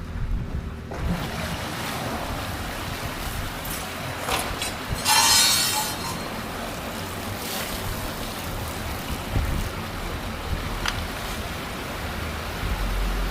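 Rainwater rushing and gurgling down a storm drain that has been unclogged: a steady hiss of flowing water that grows louder about a second in, with a brief louder burst around five seconds in.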